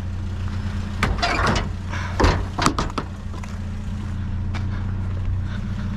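A vehicle engine idling with a steady low hum, and several sharp knocks and rustles of junk being moved about between one and three seconds in.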